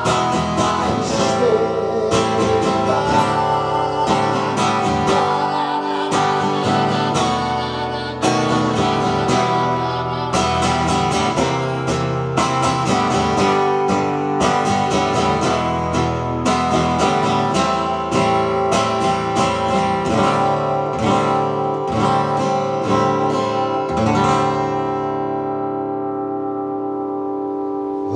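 Acoustic guitar strummed in an instrumental passage of the song, ending on a final chord left to ring out for the last few seconds.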